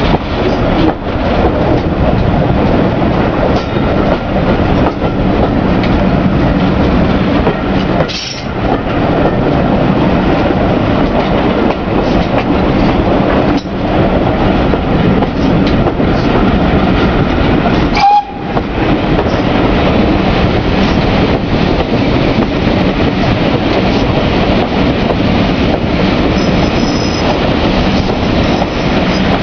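Railway coaches running along the track, heard from an open carriage window: a loud, continuous rumble and clatter of wheels on rails, with a few brief high squeals near the end.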